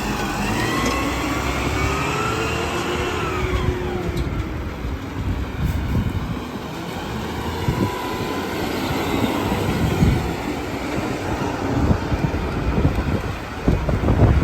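Garbage truck running, with a whine that rises and then falls over the first four seconds, followed by a steady rumble with irregular low thumps.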